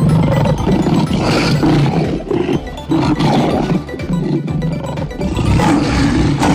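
Lion roaring, a run of deep roars one after another, over background music.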